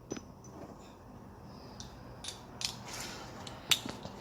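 Scattered small clicks and taps of metal tools and fasteners being handled during engine work, with one sharper click near the end.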